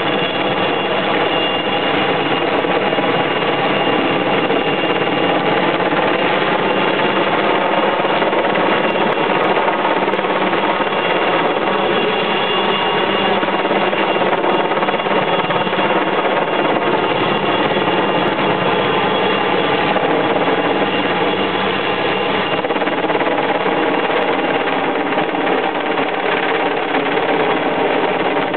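Helicopter running steadily, its rotor and turbine sound holding a constant pitch throughout.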